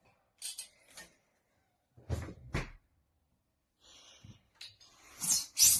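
A series of separate knocks and clatters from things being handled: light clicks in the first second, two heavier thumps about two seconds in, and the loudest clatter near the end.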